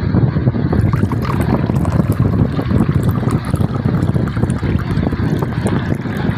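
Steady low rumbling noise, with faint scattered crackles from about a second in until near the end.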